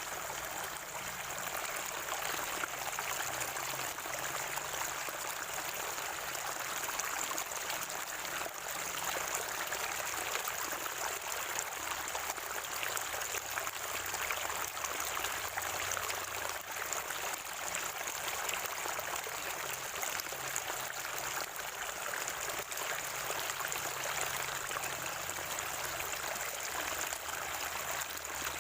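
Water of a natural spring flowing and gurgling, a steady rush with no break or change.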